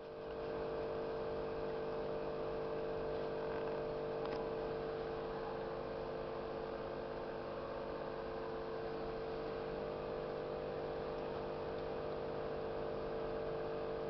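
A steady mechanical hum with a strong low tone and a hiss above it, unchanging throughout; a faint click about four seconds in.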